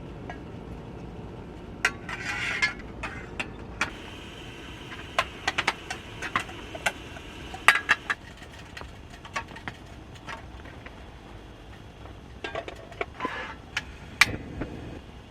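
Camp gear being handled: scattered clicks, clinks and small rattles, with two short rustling bursts, about two seconds in and again near the end.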